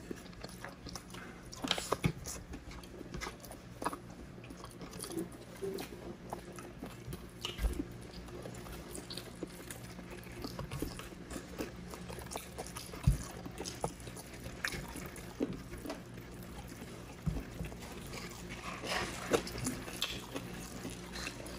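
Close-miked eating sounds of two people eating grilled chicken, pork barbecue and java rice by hand: chewing, lip smacks and soft scattered clicks, over a faint steady low hum.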